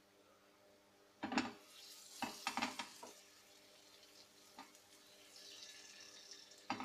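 Marinated paneer tikka skewer set into hot oil in a non-stick frying pan: a few knocks of the bamboo skewer against the pan starting about a second in, then a soft sizzle of the paneer and vegetables frying.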